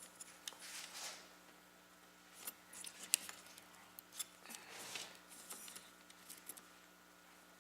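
Faint clicks and handling sounds of a G.Skill Trident Z RGB memory stick being pressed into a motherboard DIMM slot, with one sharp click about three seconds in as the slot's latch snaps.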